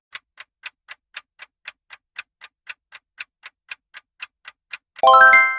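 Clock-ticking sound effect counting down the answer time, about four even ticks a second. About five seconds in it stops, and a short chime of quickly rising ringing notes signals that time is up.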